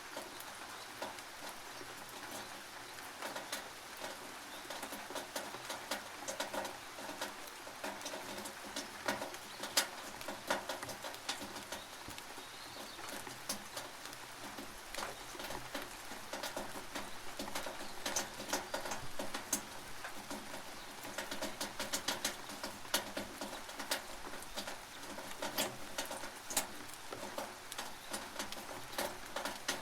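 Rain dripping and pattering on a tin roof: a steady hiss of rain dense with sharp, irregular drip ticks on the metal.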